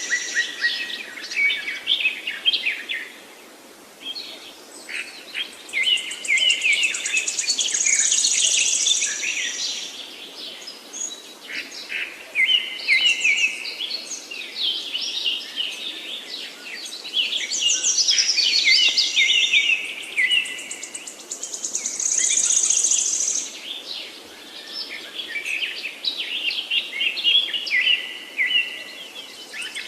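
Several songbirds singing at once in woodland, their phrases overlapping without pause. High, fast trills return every few seconds over a steady run of quicker chirps and stepped notes.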